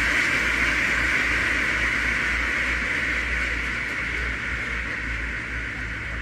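A large flock of ducks quacking all at once, so many voices that they blend into one steady din that slowly fades, over a low uneven rumble.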